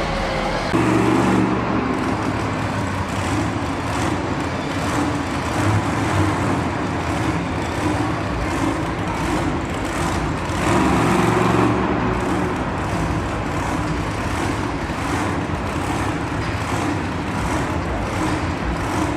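Monster truck engine running loud, revving up in surges about a second in and again around eleven seconds in.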